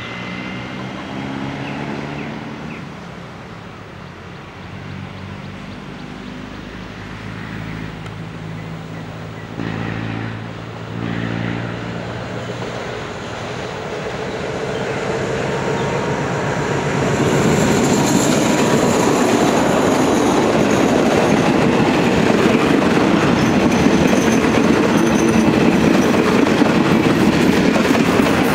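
Diesel locomotive hauling a passenger train: its engine hum grows as it approaches, then a little over halfway through the coaches pass close by, and a loud, steady clatter and rumble of wheels on the rails takes over.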